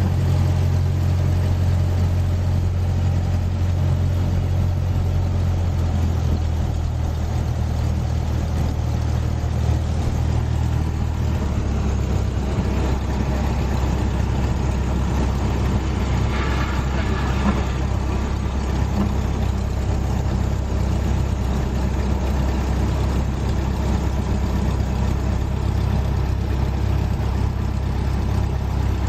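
Cessna 172S Skyhawk's four-cylinder Lycoming piston engine and propeller running as a steady drone. The engine note steps down twice, about six and about eleven seconds in, as power is reduced.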